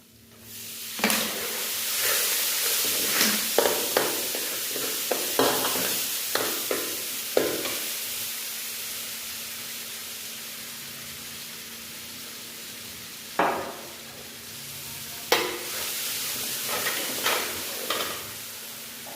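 Food sizzling as it fries in a pan, stirred with a utensil that knocks and scrapes against the pan in sharp strikes. The sizzle swells about half a second in, eases off in the middle and picks up again near the end.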